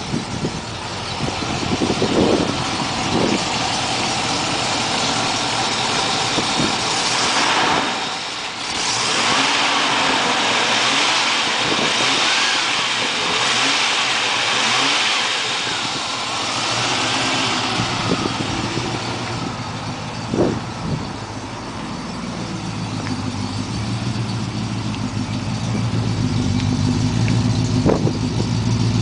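Rover SD1's V8 engine running after a cold start, with a few short revs and a steady hiss in the middle stretch; over the last several seconds it settles into an even idle, the exhaust note coming to the fore.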